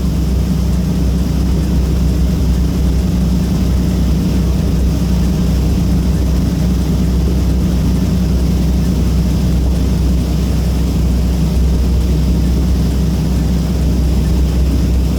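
Steady, loud drone of a passenger catamaran's engines heard on board while under way, with a constant low hum and a hiss of water and wind over it.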